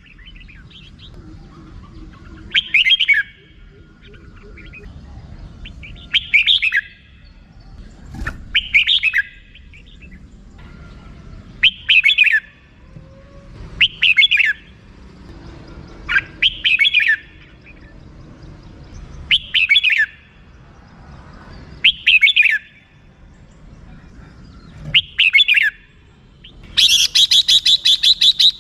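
Red-whiskered bulbul calling: short warbled phrases about every two to three seconds, then, near the end, a fast run of many short repeated notes, the rattling 'rik' call.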